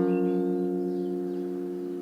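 Guitar chord ringing out, its several notes sustaining and slowly fading.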